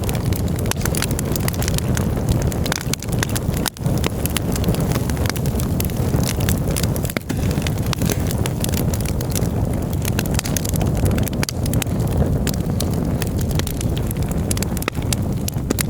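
Campfire burning, with many sharp crackles and pops over a steady low rumble.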